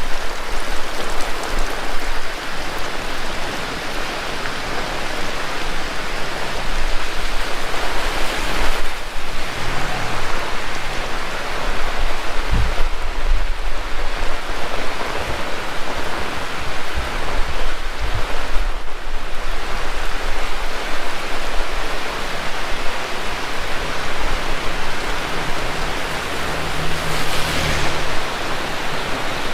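Heavy rain pouring steadily, with a low rumble underneath and a few brief swells in the downpour.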